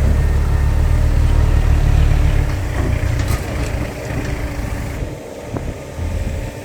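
Heavy diesel engine of a loaded dump truck labouring in sand. It runs with a loud, deep rumble for the first few seconds, then eases off to a lower, steadier running sound.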